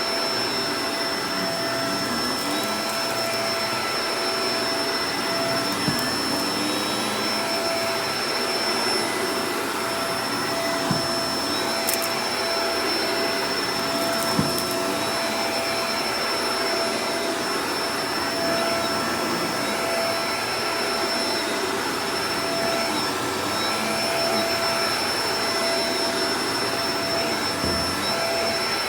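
Shark Professional Powered Lift-Away DLX (NV586) vacuum cleaner running steadily: an even rush of airflow under a constant motor whine, with a few brief clicks.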